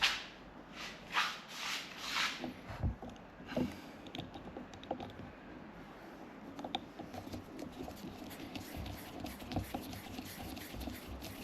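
Hands working on parts and tools: a few soft swishes near the start, then scattered light clicks and scratches.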